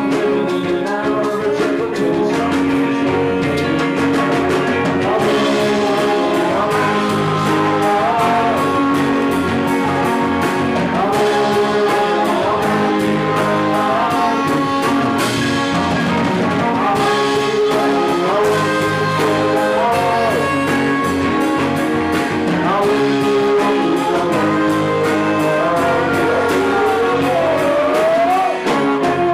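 Live rock band playing through a song, heard through a camcorder microphone. A lead melodic line bends and slides between notes over bass and drums, with a long rising slide near the end.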